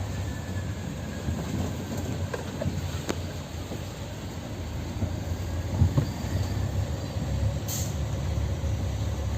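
Heavy vehicle engine running steadily, a low rumble, with a few light clicks and knocks.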